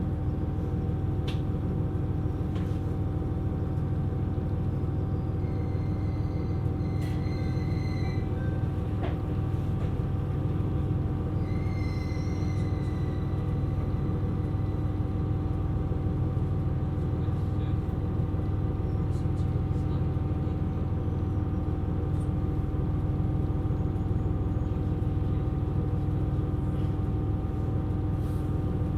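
KiHa 127 series diesel railcar running at steady speed: an even low rumble of wheels on track under a steady engine drone, with a few faint, brief high squeaks.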